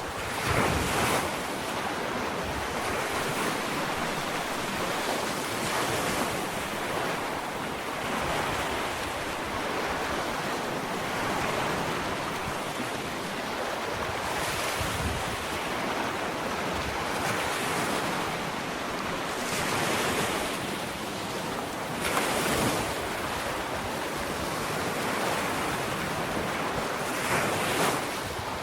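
Ocean waves breaking and washing onto a sandy shore, a continuous surf hiss with a wave surging louder every few seconds, about six times. Wind on the microphone.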